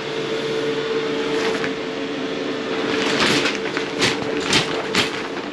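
Toilet tank refilling after a flush: water runs with a steady whine from the fill valve. Three sharp knocks come about four to five seconds in.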